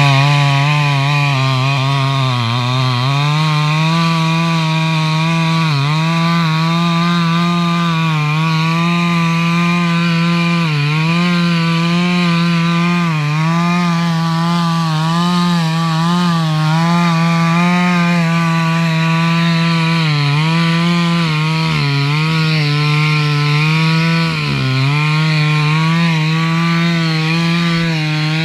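Chainsaw running at high speed while cutting wood. Its engine pitch sags briefly every second or two as the chain bites in under load, then picks back up; it runs a little lower for the first few seconds before rising.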